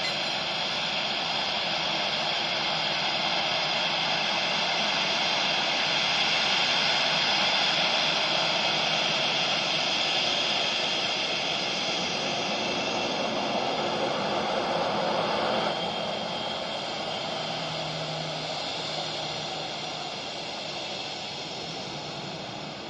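Jet airliner engines running on a pass over the runway: a loud, rushing noise with a high whine, swelling over the first several seconds, then dropping off sharply and fading away.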